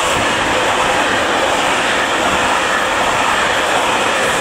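Freight train of covered sliding-wall and tarpaulin wagons rolling past on the track, a loud, steady rolling noise of the wheels on the rails.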